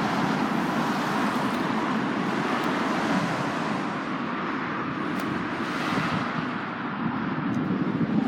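Steady hiss and rumble of road traffic, with a few faint clicks in the second half.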